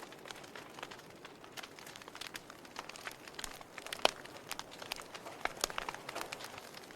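Wood fire crackling, with irregular sharp snaps and pops over a faint hiss and one loud pop about four seconds in.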